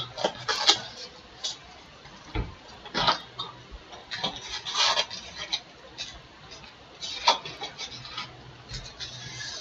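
Trading-card boxes and foil packs being handled and opened: an irregular string of short rustles, crinkles and scrapes of cardboard and wrapper.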